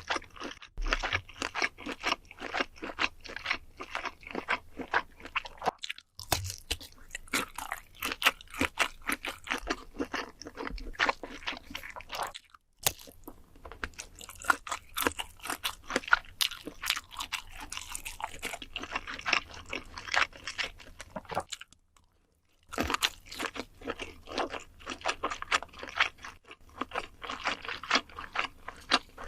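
Close-miked eating of crunchy food for a mukbang: rapid crisp bites and wet chewing crackles, pausing briefly three times.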